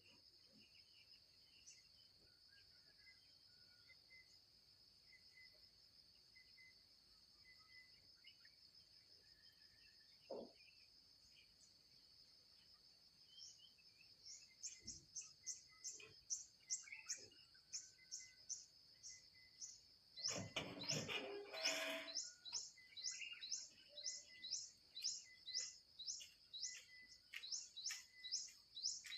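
Rapid, repeated high chirps of shrike nestlings, about three a second, starting about halfway through, typical of chicks begging for food. A brief burst of rustling comes about two-thirds of the way in. An insect drone runs steadily underneath.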